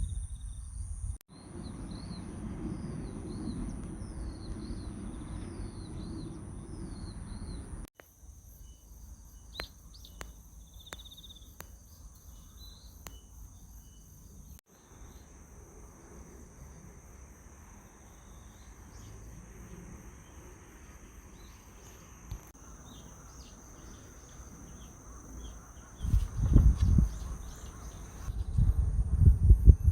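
Outdoor ambience: steady high-pitched insect trilling with birds chirping, and wind rumbling on the microphone that gets much louder near the end.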